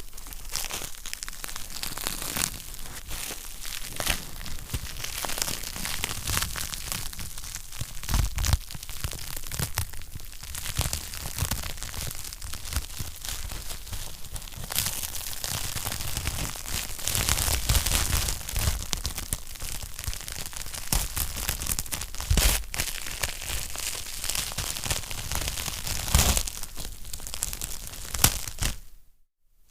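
Wood fire crackling in a fireplace: a dense, steady run of small snaps with a few louder pops. The sound cuts out for a moment near the end.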